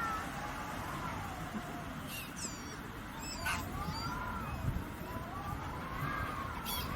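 Outdoor nature ambience: a few short, high bird chirps and slow wavering calls over a steady low rushing noise.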